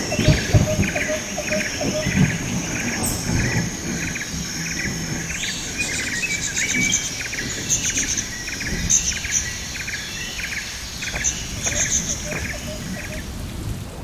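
Birds calling outdoors: one short call repeated about twice a second, with higher twittering chirps joining about halfway through, over a steady high-pitched hiss and a low rumble.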